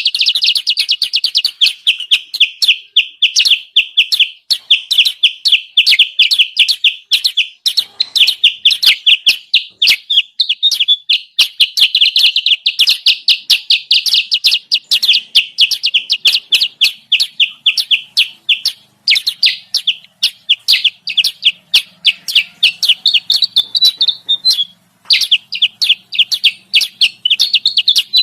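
Bird-lure recording of kutilang sutra (a bulbul) calls: rapid, unbroken high chirping, many chirps a second, with one short break a few seconds before the end.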